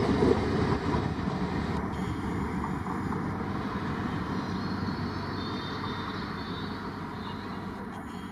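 Rumble of a passing train fading steadily as it moves away, with the tail of its horn cutting off just after the start.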